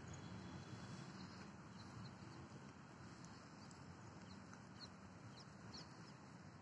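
Near silence: faint outdoor background noise with a few faint, short, high chirps from distant birds.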